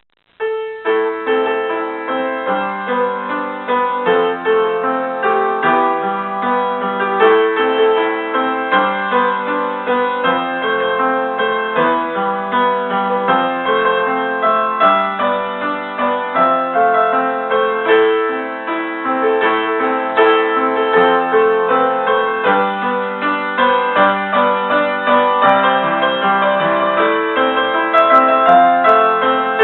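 A piano-style keyboard playing a pop melody with chords, one note after another with no pause. By the player's own account the playing is amateur, with slips and an uneven rhythm.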